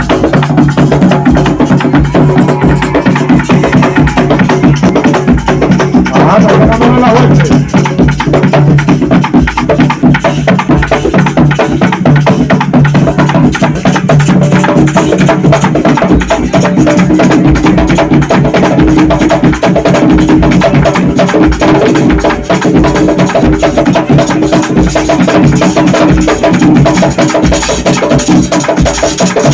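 A percussion ensemble drumming live: a fast, dense, unbroken rhythm of drum strokes with a woody clicking, over sustained low tones.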